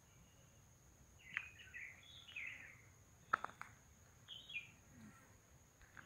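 Faint bird calls in forest: short chirping phrases about a second in and again around four seconds, with two sharp clicks near the middle.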